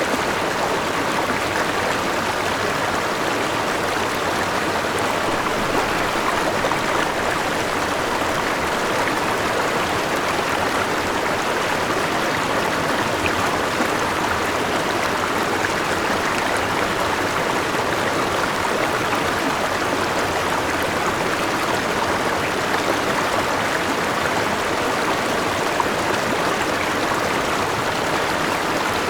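A forest river and waterfall flowing, a steady, unbroken rush of water.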